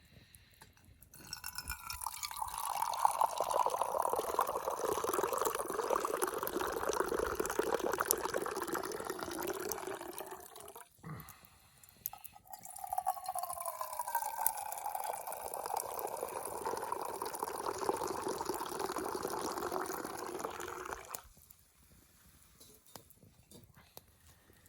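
Hot tea poured from a kettle into a cup, twice, each pour lasting about eight seconds with a pitch that slides downward as it runs.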